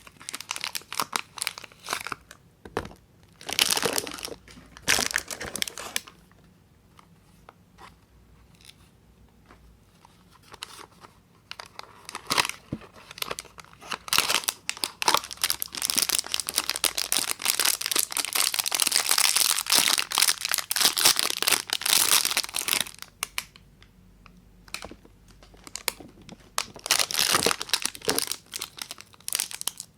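Soap wrappers being crinkled and torn open by hand: bursts of crisp packaging rustle and tearing, with a quiet pause near the first third and a long continuous stretch of crinkling in the middle.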